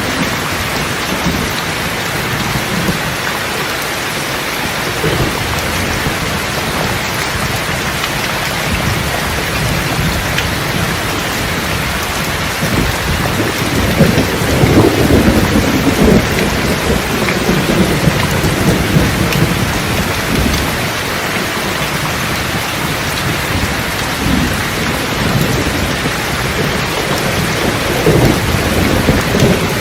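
Steady rain falling, with a long roll of thunder starting about halfway through and a shorter one near the end.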